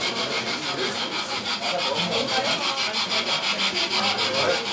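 Harz narrow-gauge steam train running, a steady rushing hiss that pulses evenly and rapidly, about nine beats a second.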